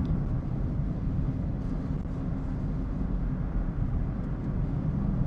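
Steady low road and engine rumble heard inside a moving Subaru's cabin.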